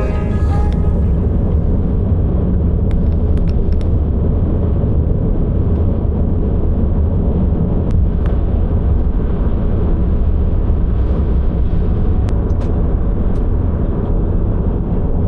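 Steady low rumble of a vehicle on the move, engine and road noise running evenly, with a few light ticks.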